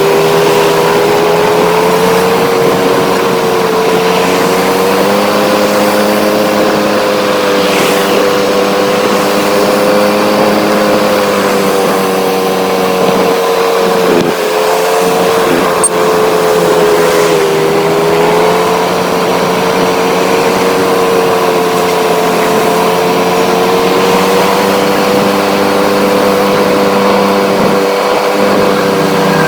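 Motorcycle engine running steadily while riding, its pitch drifting gently up and down.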